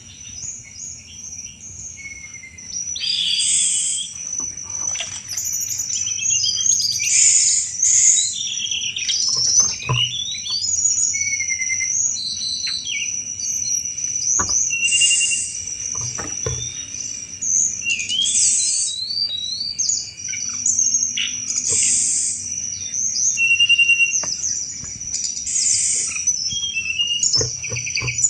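Tledekan gunung songbird singing its 'cetrekan' song: a run of separate phrases of quick chirps, glides and rattling notes, one every second or two, over a steady high thin tone.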